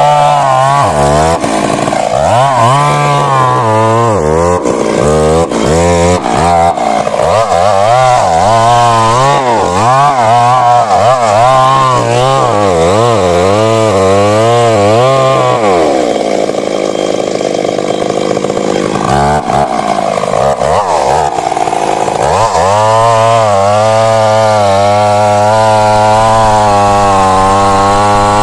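Stihl MS 382 two-stroke chainsaw running hard while sawing through wood, its engine pitch wavering up and down under load for much of the time, then holding steadier near the end.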